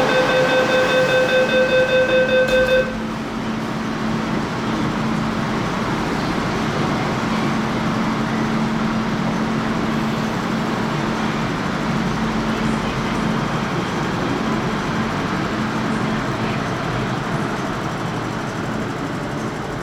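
MTR K-Train door-closing warning: rapid beeps, about three a second, that cut off about three seconds in. Then the train's steady running noise with a low hum as it pulls out of the station.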